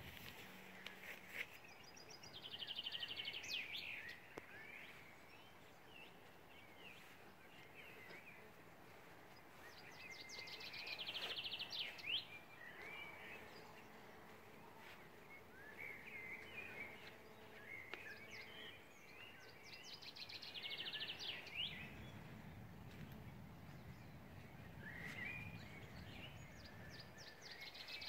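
A songbird repeating the same short, fast trill that ends in a flourish, four times about eight seconds apart, with quieter chirps from other birds in between. A faint low rumble swells for a few seconds near the end.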